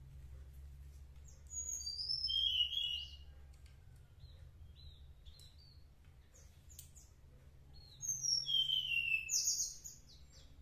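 Small birds chirping and singing in two short bouts, about a second and a half in and again near the end, with quick high notes and whistles that slide downward.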